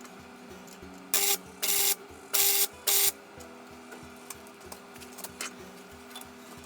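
Welding arc crackling in four short bursts, each under half a second, in quick succession: tack welds fixing a steel tab to a chassis rail.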